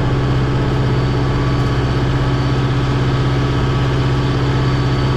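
Kubota M6060 tractor's diesel engine running at a steady speed, a constant low drone with no change in revs.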